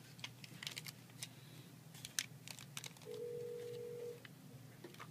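Light, scattered clicks of small helicopter parts being handled by hand, then a steady electronic beep lasting about a second, a little past the middle.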